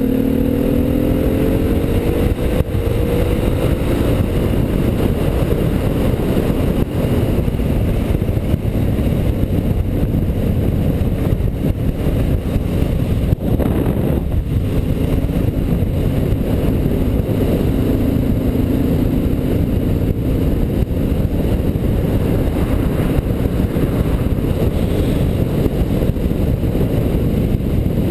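Motorcycle engine under way with heavy wind rush, heard from on the bike. The engine note rises over the first few seconds as it accelerates, then settles into a steadier drone.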